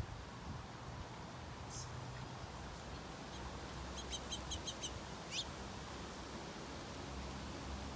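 Small birds calling: a brief high note, then a quick run of about six short high chirps, then a single falling note, over a steady low background rumble.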